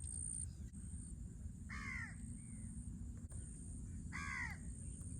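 A crow cawing twice, two harsh, falling calls a little over two seconds apart, over a low steady background rumble.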